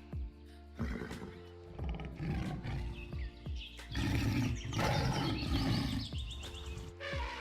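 A large animal's loud, rough call, strongest from about four seconds in and lasting a couple of seconds, over background music with a steady beat.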